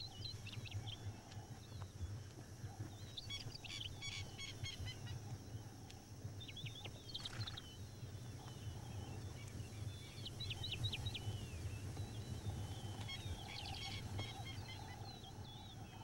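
Birds calling at dawn: clusters of short, high chirps every few seconds over a low steady hum.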